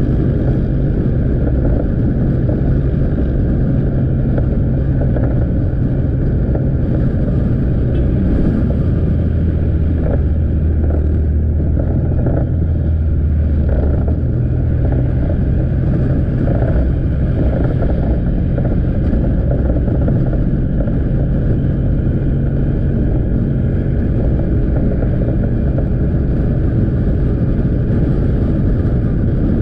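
Motorbike engine running steadily while riding, with road and wind noise. About nine seconds in the engine note drops lower for several seconds, then rises back to its earlier pitch.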